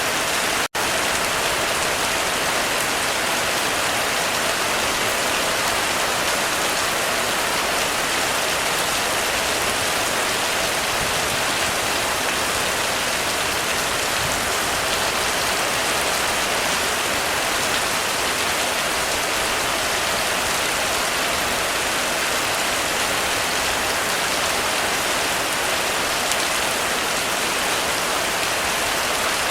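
Heavy rain falling steadily on a roof, a dense, even hiss with no thunder. It cuts out for an instant about a second in.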